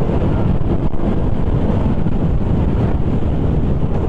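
Steady wind rumble buffeting the microphone of a moving motorcycle, with the KTM Duke 200's single-cylinder engine and road noise running underneath.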